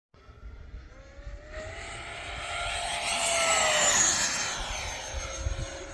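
Radio-controlled model airplane flying past at speed. Its motor's whine grows louder, peaks about four seconds in, then drops in pitch as the plane passes and moves away.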